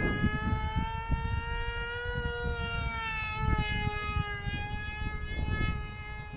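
Small electric RC flying wing's motor and propeller giving a loud, steady high whine that rises a little about two seconds in and then eases down, with wind gusting on the microphone.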